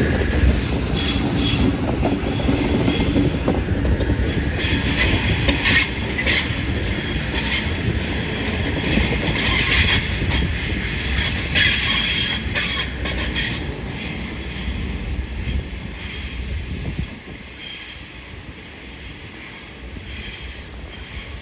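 A passenger train rolling through the station, wheels squealing on the rails, with clicking over rail joints and a low rumble. The rumble drops away about three-quarters of the way through as the train moves off.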